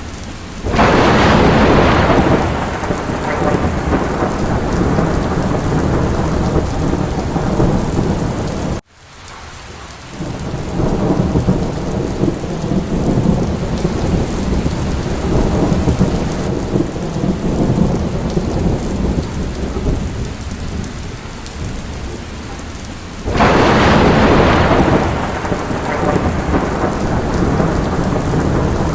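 Steady heavy rain of a thunderstorm, with a peal of thunder about a second in and another near the end, each breaking out suddenly and rolling away over a few seconds. The sound cuts out for a moment about a third of the way through and then swells back.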